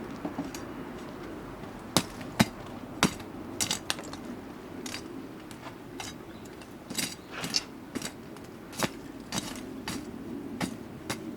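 Wood fire burning with irregular sharp crackles and pops, the loudest about two seconds in, over a low steady rush of the flames.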